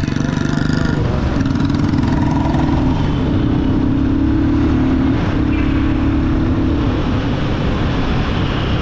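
Royal Enfield Guerilla 450's single-cylinder engine pulling through city traffic. Its note rises about a second in and holds, breaks briefly around five seconds, then drops back about seven seconds in.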